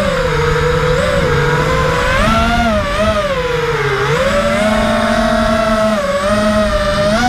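FPV racing quadcopter's brushless motors whining, the pitch gliding up and down as the throttle changes, with a dip about four seconds in.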